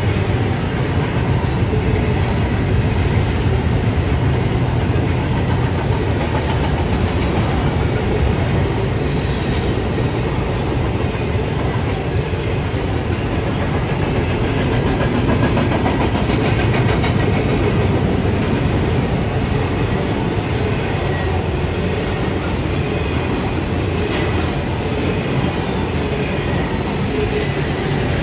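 A train's cars rolling past at a steady pace, a continuous rumble of wheels on the rails with scattered light clicks.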